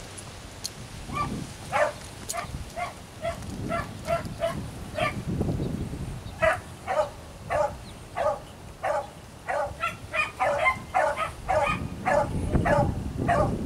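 Beagles barking in short, repeated barks as they trail a cottontail rabbit. The barks come one to three a second and grow denser and overlap from about ten seconds in.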